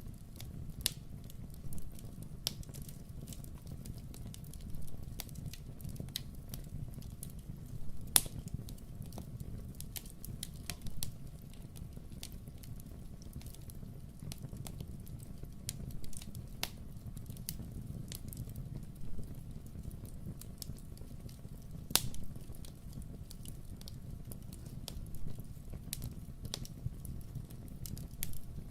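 Wood fire crackling in a fireplace, with irregular sharp pops over a steady low rumble. The loudest pops come about 8 seconds in and again about 22 seconds in.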